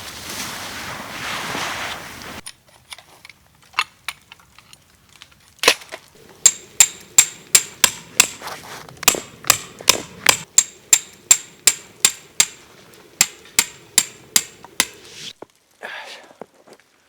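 A rustling, scuffing noise for about two seconds, then a fast run of sharp metallic strikes, about two to three a second for some ten seconds, each with a brief high ring, like a hammer on metal.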